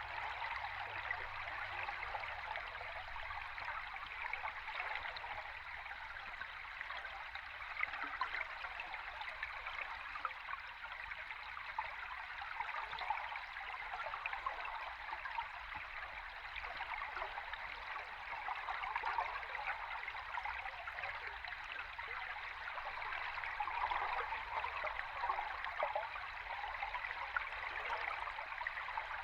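A flowing stream heard underwater: a steady rushing hiss with dense fine crackling throughout.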